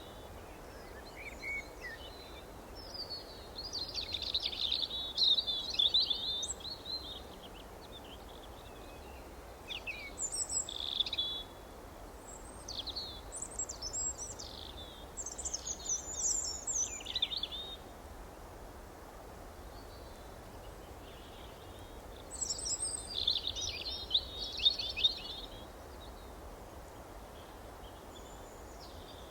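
Songbirds singing in quick, twittering phrases that come in bursts a few seconds long, with pauses between them, over a steady background hiss.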